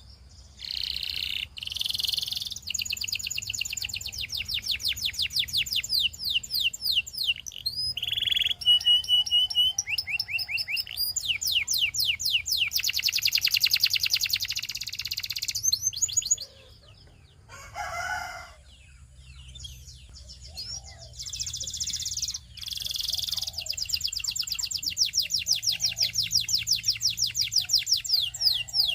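Canary singing long, fast trills, each a rapid run of repeated high notes. The song stops for a few seconds a little past halfway, broken by one short call, then resumes.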